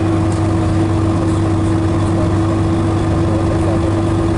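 Scania DS11 six-cylinder diesel engine of an MCW Metropolitan double-decker bus running steadily, a continuous low hum with a steady held whine above it.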